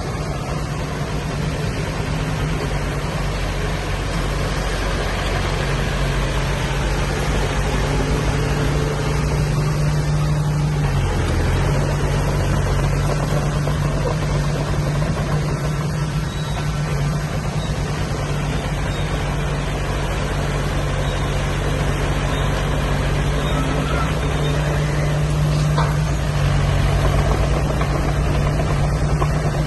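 Diesel engine of heavy earthmoving machinery running steadily, a deep drone. Its pitch dips briefly about eleven seconds in.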